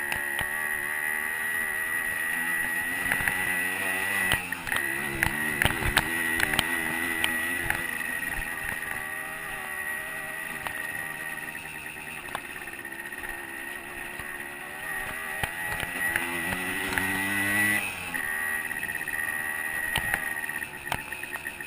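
A 125 cc two-stroke dirt bike engine running under way, its revs rising and falling with the throttle and climbing near the end before dropping off. Frequent knocks and rattles come through from bumps in the trail, over a steady high whine.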